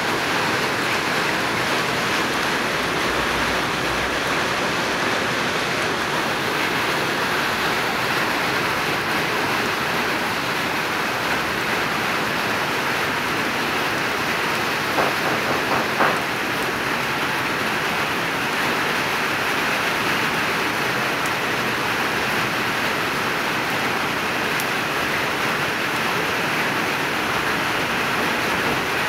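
Light rain falling steadily, an even hiss, with a few brief taps about halfway through.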